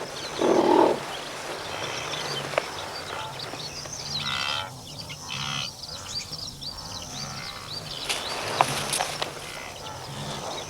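Animal calls at a kill in the wild: a short low grunt under a second in, then several higher bleat-like calls around the middle, over steady high chirping.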